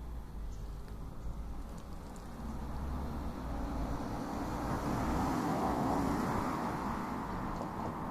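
A vehicle passing by: a smooth noise with no separate beats that swells to its loudest about five to six seconds in, then fades.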